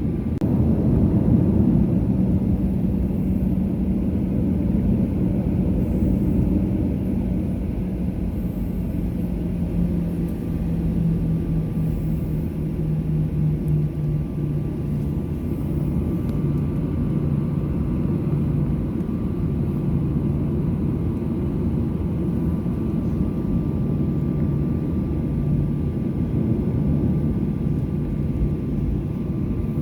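Cabin rumble of a Boeing 737-800 taxiing after landing, heard from a window seat. The engine hum slides lower over roughly the first dozen seconds, then holds steady at idle.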